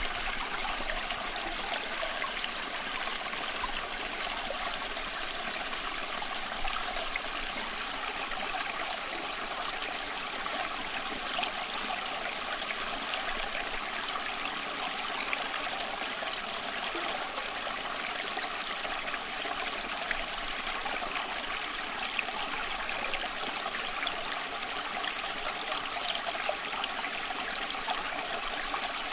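Small stream running over rocks, a steady babbling and trickling of water with no let-up.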